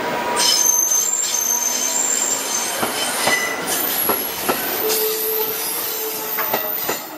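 JR Central electric train pulling out of the station past the platform, its wheels squealing in thin high tones with a series of sharp clicks over the rail joints.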